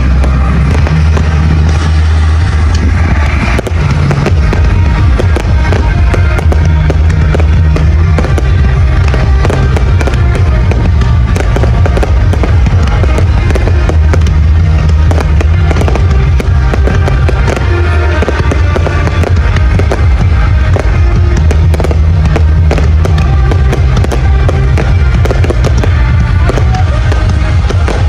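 Fireworks going off in quick succession, a dense stream of bangs and crackles, over loud music with a heavy, steady bass.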